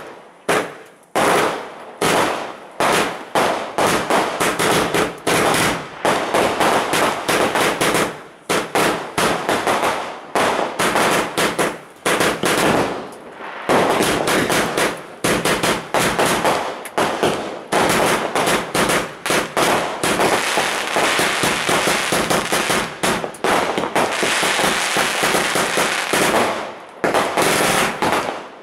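Morrisons Magnificent Finale 144-shot firework cake firing in rapid succession, several sharp bangs a second with crackling bursts, thickening into a dense crackle towards the end.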